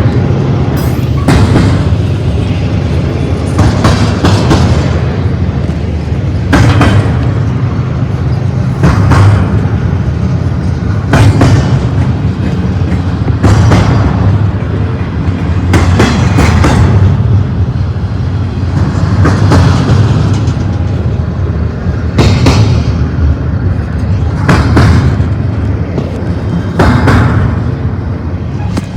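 Double-stack freight train cars rolling past, a steady low rumble with a clatter of wheels about every two and a half seconds.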